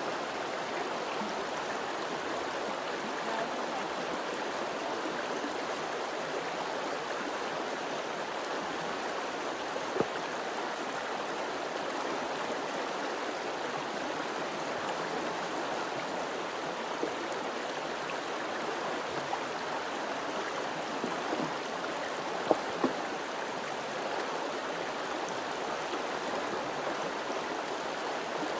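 Steady rush of flowing water, like a stream running over rocks, with a few sharp clicks: one about a third of the way in and two close together later on.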